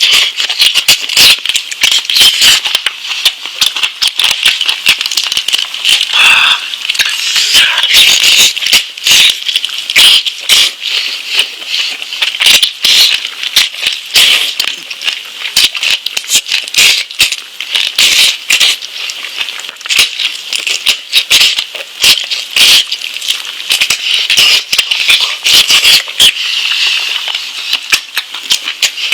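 Close-miked eating sounds of someone chewing and biting lamb meat: a dense, irregular stream of wet clicks, smacks and crackles without pause.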